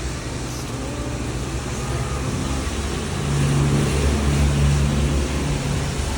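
Road vehicle noise: a steady rush of tyre and road noise under a low engine drone, the drone growing louder for a couple of seconds around the middle.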